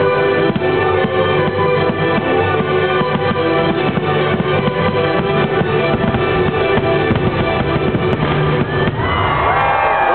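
Orchestral show music playing loudly over a fireworks display, with many firework bursts popping through it. Near the end, high whistling tones come in that glide up and down.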